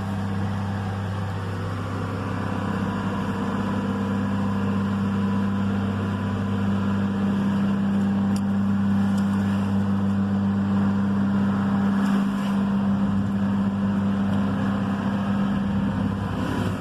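A heavy engine runs steadily with a low, even hum that grows slightly louder. There are a few faint clicks in the middle.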